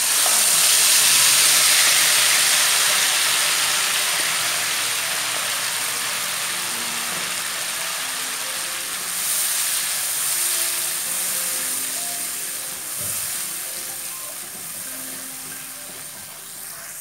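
Ground red chili spice paste dropped into hot oil in a wok, sizzling loudly. The sizzle starts suddenly and slowly dies down as the paste cooks.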